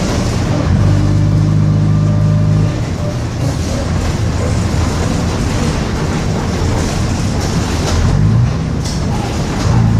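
Diesel engine of a Bristol RELL6L single-deck bus, fitted with a non-original engine, running on the move. The engine note holds steady and strong for a couple of seconds early on, eases off, then rises in pitch near the end as the bus pulls away again.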